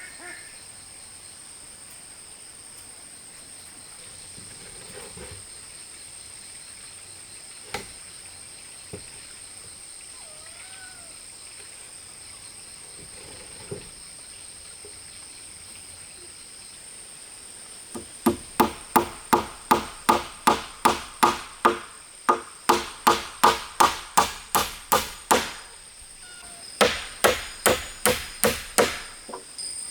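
Hammer driving nails into wood: a fast run of loud, ringing strikes, about three or four a second, starting past the middle, a brief pause, then another run near the end. Before the hammering, a steady high insect drone with a few single knocks.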